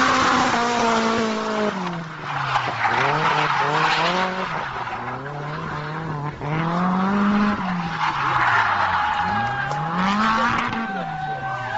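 A vehicle engine revving hard, its pitch climbing and then dropping sharply again and again as it accelerates through the gears, with bursts of hissing noise over it.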